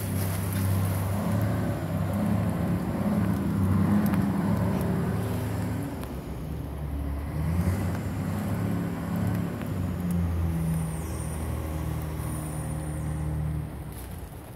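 Nissan Fuga 3.5-litre V6 idling, heard inside the cabin as a steady low hum. The hum drops in level near the end.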